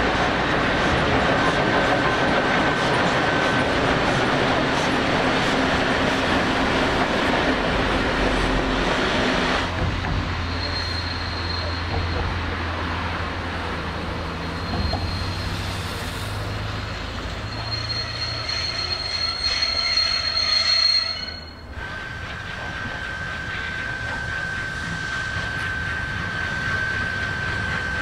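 A steam-hauled train rolling slowly into a station, its wheels rumbling and clattering over the rails with a steady high-pitched flange squeal. The sound shifts abruptly twice as the view changes, with a higher squeal in the middle stretch.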